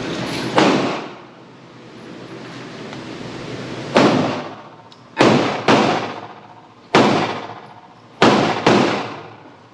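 Seven gunshots from a Pioneer Arms Hellpup, an AK-pattern pistol in 7.62×39, fired one at a time at an uneven pace, with two quick pairs among them. Each shot rings out briefly after the crack.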